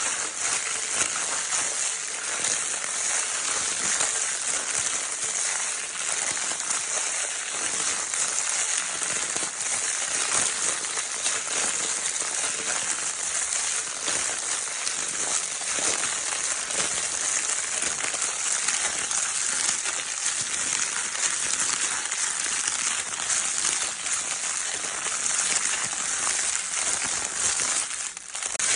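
Crinkle paper in a baby's crinkle toy being rustled and crumpled continuously, a dense, steady crackling that dips briefly near the end.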